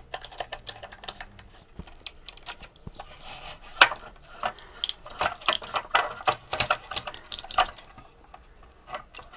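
Irregular plastic clicks, taps and rattles as the plastic parts of a vintage Radio Shack remote-control Sherman tank are handled and worked apart, with one sharp snap about four seconds in and a busier run of clicking after it.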